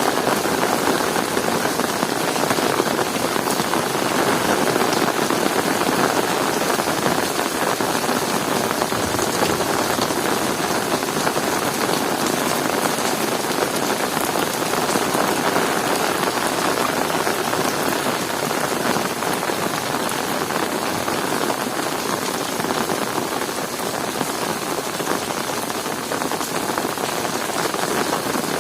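Heavy rain falling steadily, a dense, even wash of sound with no thunder.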